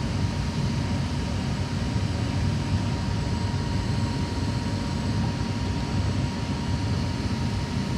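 Steady low rumble of running machinery, with a faint steady whine above it.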